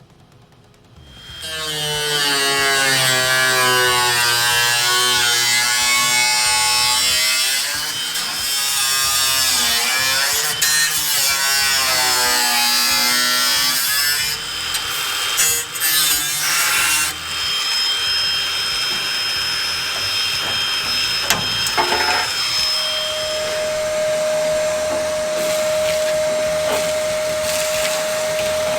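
Handheld electric grinder working on the rusted sheet-metal sill. Its whine wavers and dips as it is pressed into the metal, and it runs at a steady high pitch in the last third.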